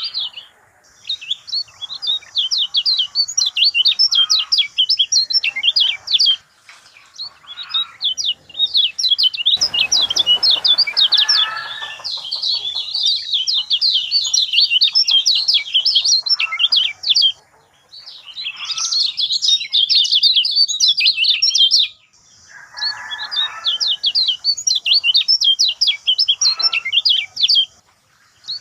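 Kecial kuning in full song: long, fast runs of high chirps and trills, broken by a few short pauses.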